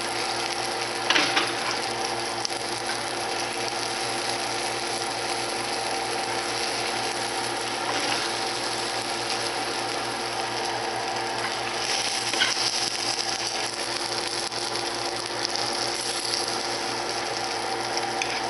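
Canned herring fillets frying in hot oil in a nonstick pan: a steady, dense sizzle and crackle. A couple of brief louder knocks come about a second in and again around twelve seconds in.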